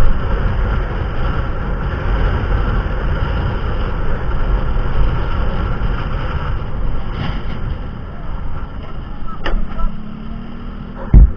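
Steady low rumble of a moving vehicle with wind noise, and a short loud knock near the end.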